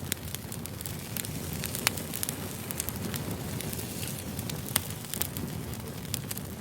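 Wood fire burning: a steady low rumble with scattered sharp crackles and pops, the loudest about two seconds in and near five seconds.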